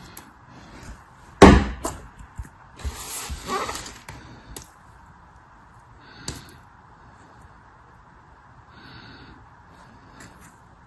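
Unboxing handling noises: one sharp, loud knock about a second and a half in, a second of crinkling or rustling, then a few small clicks.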